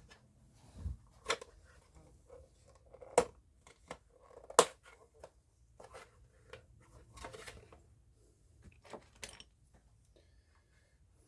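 A slot car's box being handled and prised open: scattered clicks and knocks, the two loudest about 3 and 4.5 seconds in, with some rustling of packaging.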